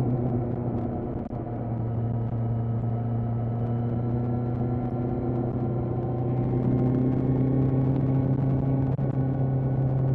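Kawasaki Z900's inline-four engine running at a fairly steady speed while riding, its note a little louder from about six seconds in.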